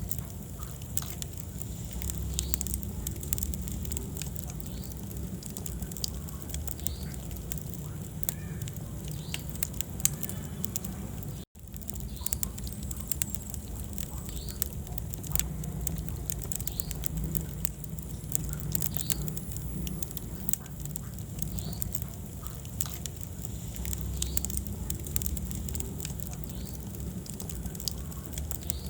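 Wood fire burning in a fireplace: a steady low rumble of flames with frequent small crackles and pops and one louder pop. The sound cuts out for an instant about a third of the way through.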